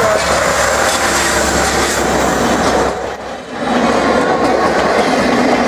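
A train hauled by a DE10 diesel locomotive with a D51 steam locomotive passing close by, its wheels running over the rails in a steady loud rumble. The noise dips briefly about three and a half seconds in, then picks up again.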